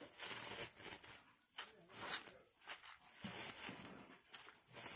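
Faint, irregular rustling and scraping as small tools and their packaging are handled.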